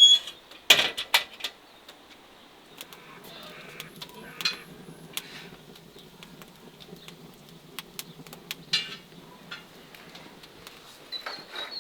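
Scattered clicks and knocks, with a loud knock about a second in, over a low steady hum through the middle.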